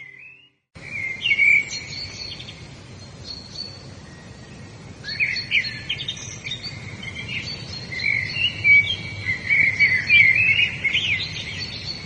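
Several birds chirping and singing over a steady background hiss, after a brief silence at the start. The calls grow busier about halfway through.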